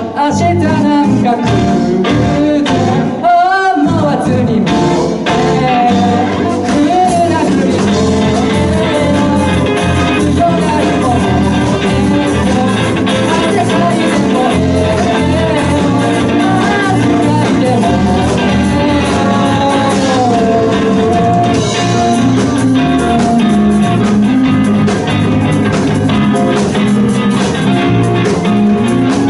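Live band playing a pop song: keyboard, guitar and drums under a bending lead melody, loud and continuous.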